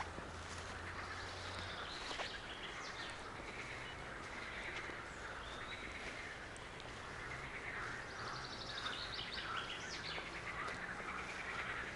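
Several songbirds singing and chirping over a soft background hiss, with a rapid high trill about eight seconds in. A faint low hum fades out in the first two seconds.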